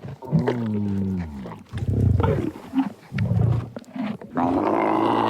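Camel vocalising: a drawn-out call that falls in pitch, several short calls in the middle, then another long call starting near the end.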